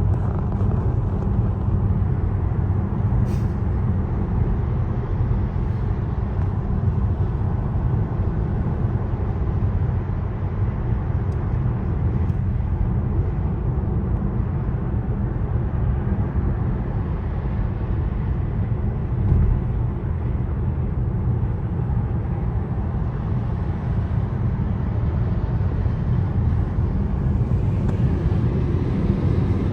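Steady, loud low rumble that stays level throughout, with a brief knock about 19 seconds in.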